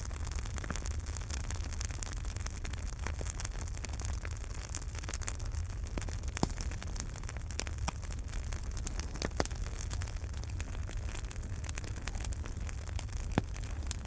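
Wood fire burning in a fireplace: a steady low rumble and hiss of the flames with frequent small crackles and pops, three of them sharper and louder than the rest.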